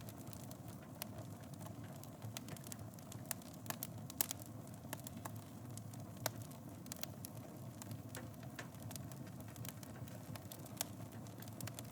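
Wood fire in a fireplace crackling, with irregular sharp pops over a steady low rumble of flames; the loudest pops come about four and six seconds in.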